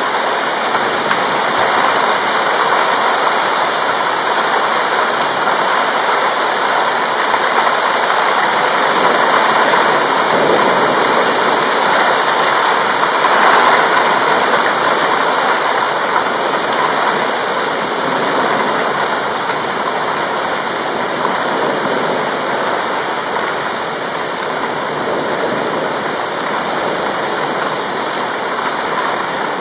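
Heavy rain pouring down steadily: a dense, even hiss with no thunder.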